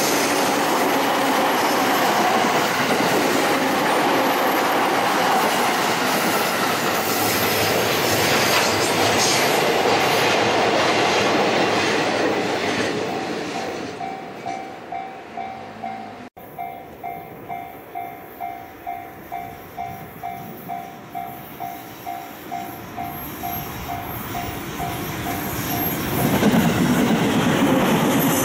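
A train passes at close range, its wheel and rail noise loud and then fading about halfway through. A Japanese level-crossing warning bell then rings about twice a second. Loud train noise returns near the end as the bell stops.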